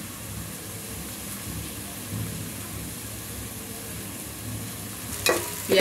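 Steady sizzling hiss of chopped onions, ginger and garlic frying in oil in a steel pot, with a low hum underneath.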